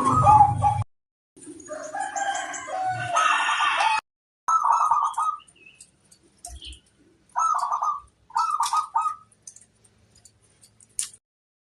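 Zebra doves (perkutut) cooing in short, rapid bursts of rolling notes, several phrases separated by pauses. Between about one and four seconds in there is a fuller, louder stretch of calling.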